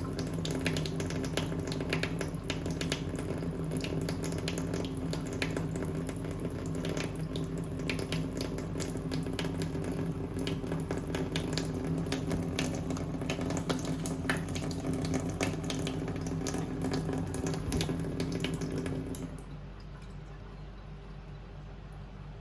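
Water running, with a steady low hum underneath. The water stops abruptly about nineteen seconds in, leaving only the quieter hum.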